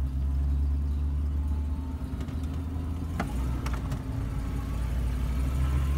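Swapped-in Ford 5.0 V8 of a 1986 Bronco II running steadily at low revs as it crawls up a dirt trail, heard from inside the cab. A few short sharp knocks about three seconds in.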